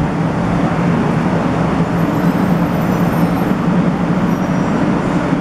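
A JR West 500 series Shinkansen standing at the platform just after coming to a stop, giving off a steady low hum and an even rushing noise.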